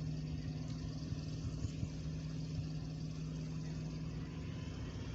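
Steady low mechanical hum over faint background noise, with a few soft clicks.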